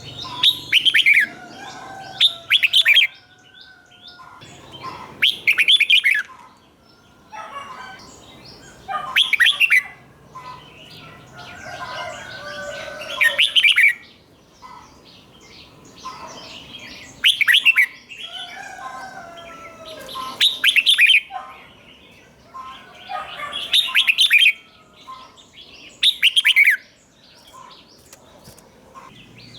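Red-whiskered bulbul singing: short, loud phrases of quick sweeping whistled notes, repeated every three to four seconds, with softer chirps in between.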